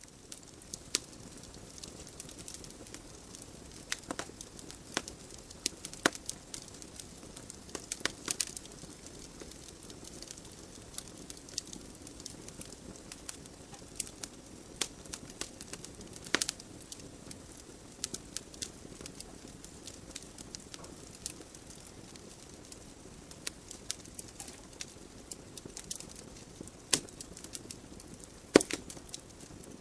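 Wood logs burning in a fireplace: irregular sharp crackles and pops over a steady soft hiss of the flames, with a few louder pops scattered through and the loudest near the end.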